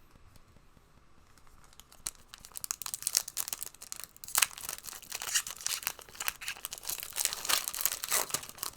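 Trading card pack wrapper being torn open and crinkled by hand, a dense run of sharp crackles starting about two seconds in.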